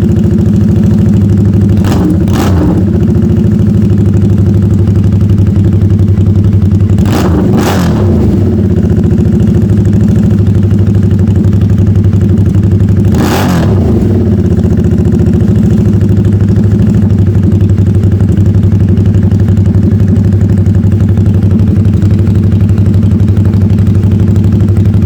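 2024 Harley-Davidson Nightster's liquid-cooled V-twin idling steadily on a cold start after a week of sitting, through an add-on O'Reilly's exhaust tip that makes it deeper and louder. Short throttle blips break in twice about two seconds in, twice around seven seconds, and once near thirteen seconds.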